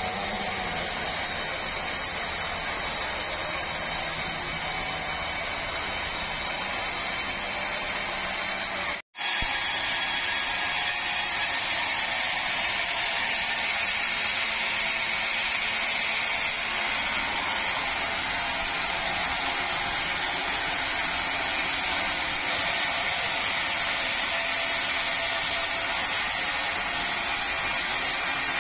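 Sawmill saw running steadily, with its engine or motor, while cutting meranti wood. The sound cuts out for an instant about nine seconds in, then carries on the same.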